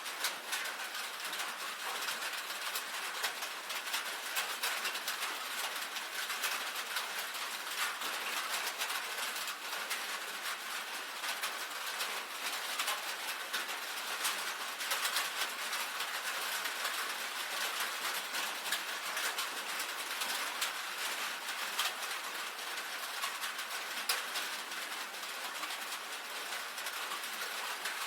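Rain falling on a tin roof: a steady, dense spread of many small drop taps on the metal.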